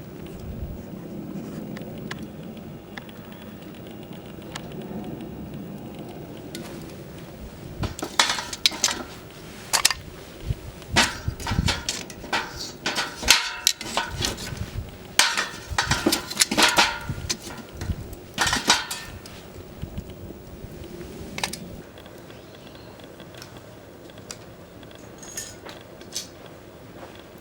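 Metal clanking and scraping: tongs knocking against a steel pail can in a run of sharp, irregular clanks that lasts about thirteen seconds through the middle, with a low steady rush before it.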